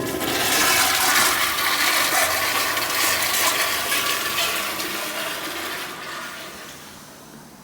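Public-restroom toilet flushing: a loud rush of water that starts at once and then tapers off over the last few seconds.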